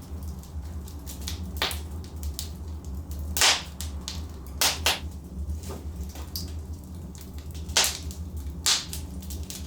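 Burning logs in a fireplace crackling: a steady patter of small snaps with a handful of louder pops, the strongest about three and a half seconds in, over a steady low rumble.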